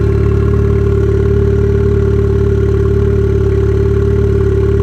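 Turbocharged Mazda Miata four-cylinder engine idling steadily and loudly, heard close up with the hood off. The engine has a small exhaust leak near the turbo.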